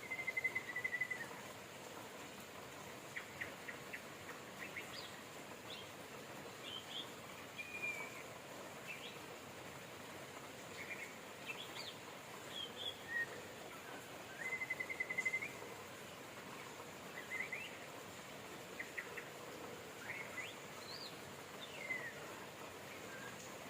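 Songbirds chirping and calling over a steady hiss of rain, with a rapid trill at the start and another about halfway through.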